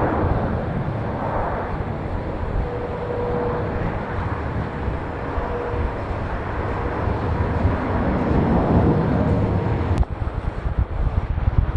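Jet airliner engines at takeoff power: a loud, steady rumble with a faint steady tone through it. About ten seconds in the sound breaks off abruptly into gusty wind on the microphone.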